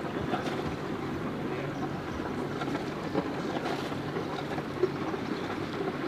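Boat engines running as boats motor out of the harbour, a steady low drone.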